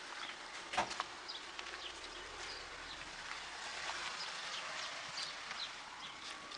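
Small birds chirping in the background, short high chirps scattered throughout over a steady outdoor hiss, with one sharp knock about a second in.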